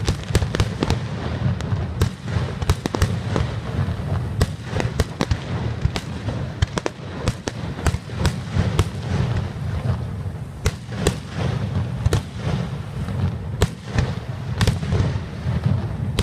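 Fireworks barrage: many rapid, overlapping bangs and crackling pops, irregular and unbroken, over a continuous low rumble.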